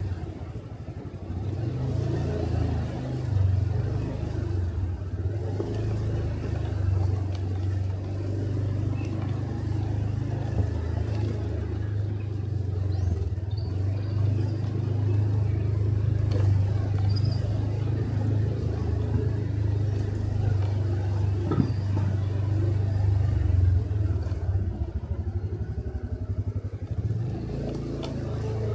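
Motorcycle engine running steadily under way, heard from the rider's seat as a low steady hum with road noise, easing briefly just after the start and picking up again near the end.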